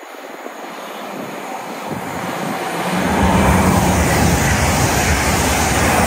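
A train approaching at speed on the main line, its wheel and air noise growing louder until it is loud and steady from about three seconds in.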